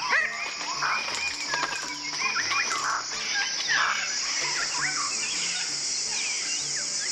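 Several birds calling in quick, rising and falling chirps and whistles, thickest in the first few seconds, over a steady high insect buzz.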